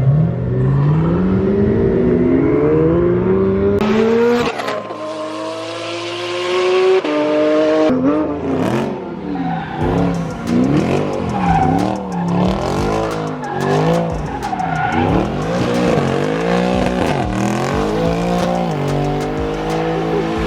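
High-performance sports car engine accelerating hard, its pitch climbing steadily. After two abrupt cuts it revs up and down over and over, about once a second, with tires squealing.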